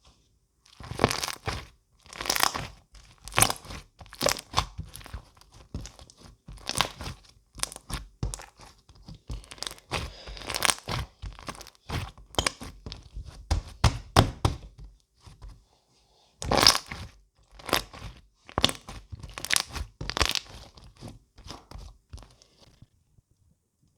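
Close-up crunching and crinkling in irregular bursts of sharp crackles, with brief pauses between handlings.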